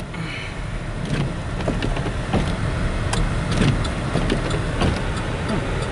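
Car running on a snow-covered road, heard from inside the cabin: a steady low rumble of engine and tyres with scattered faint ticks.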